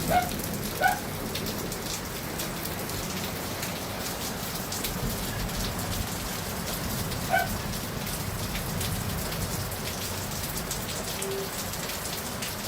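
Steady rain falling, a constant hiss dotted with many small drop ticks, with a few brief high chirps near the start and again about seven seconds in.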